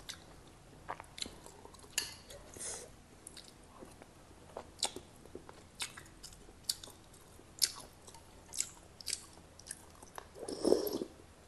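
Close-miked chewing and wet mouth clicks while eating Khmer water spinach sour soup with fish, in irregular short smacks, with a louder sip from the spoon near the end.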